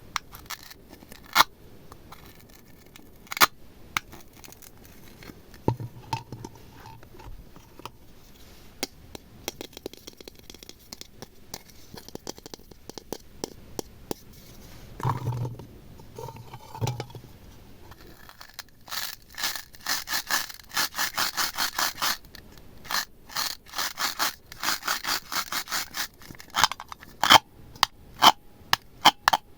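Slime being worked and mixed, with scraping and scattered sharp clicks, then fast runs of wet clicking and popping in the second half.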